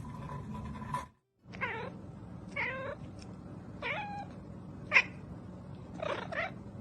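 A cat meowing, about four separate meows a second or so apart, over a steady low background hum.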